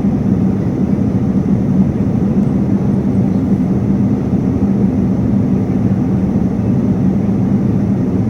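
Steady cabin noise of a jet airliner in flight: an even rushing roar of engines and airflow, heavy in the low end, with a constant low hum underneath.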